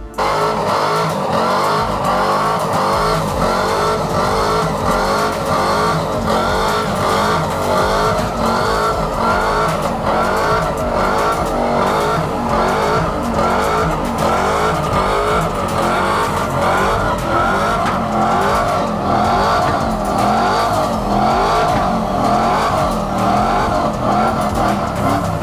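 Truck doing a burnout: engine revving hard with tyres squealing, loud and continuous.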